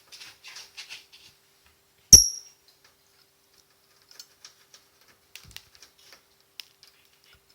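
A blue-masked lovebird gives one short, sharp, high-pitched chirp about two seconds in. Around it are faint scratchy nibbling noises and a scatter of light ticks.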